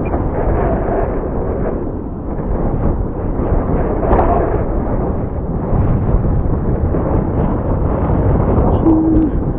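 Strong wind buffeting the microphone: a loud, rumbling rush that swells and fades in gusts.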